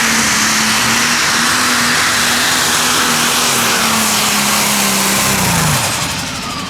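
Pulling-tractor engine at full throttle dragging the weight-transfer sled, its pitch steady, then falling away about five and a half seconds in as the run ends. There is a little flutter at the end, which is not a good sign.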